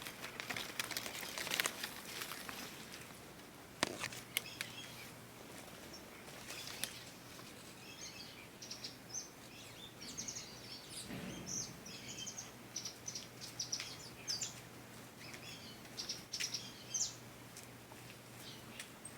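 Small birds chirping in short, high, repeated calls, thickest from about eight seconds in. A few sharp clicks and rustling noise come in the first several seconds.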